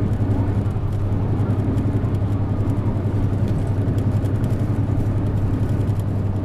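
Isuzu Erga PJ-LV234N1 city bus's diesel engine running at a steady pace under way, heard on board with road noise.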